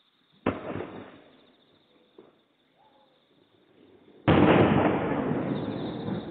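Aerial fireworks shells bursting far off: a boom about half a second in, then a much louder boom a little after four seconds, each trailing off in a long rumble.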